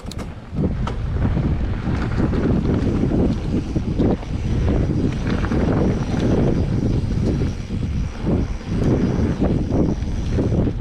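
Loud wind rush buffeting the microphone and rumble of a mountain bike riding fast down a dirt singletrack, surging unevenly.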